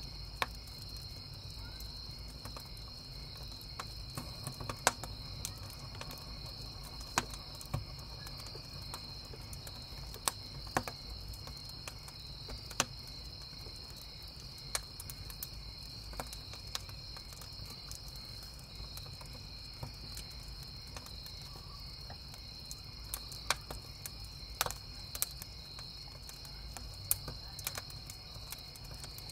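Crickets chirping in a steady, continuous chorus, with a wood campfire crackling: irregular sharp pops and snaps, several of them louder than the crickets, over a low steady rumble.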